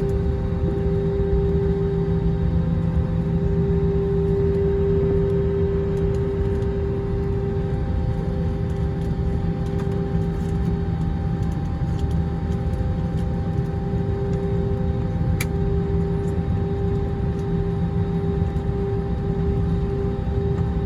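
Airbus A321 airliner's jet engines running steadily at low power: a constant hum over a low rumble, with no build-up of thrust.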